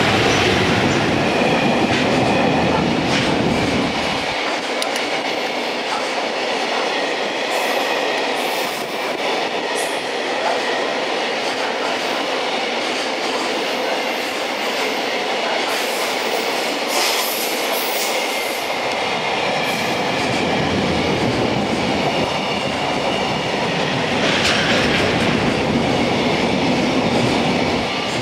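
JR Freight container train hauled by an EF210 electric locomotive rolling past close by. The locomotive goes by first, with a heavy low rumble. Then a long run of container wagons follows, their steel wheels clattering over rail joints, with brief high wheel squeals now and then.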